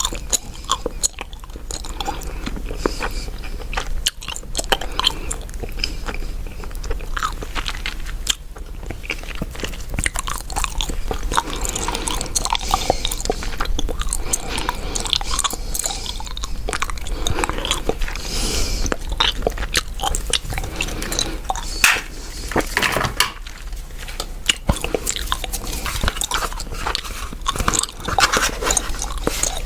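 Gum chewing close to the microphone: a continuous run of small smacks and clicks from the mouth.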